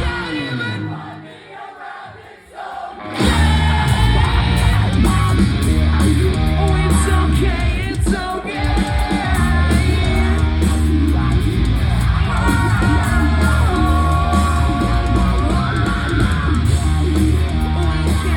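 Post-hardcore band playing live and loud: distorted guitars, drums and bass with sung and yelled vocals. The band drops out briefly about a second in, then crashes back in full about three seconds in.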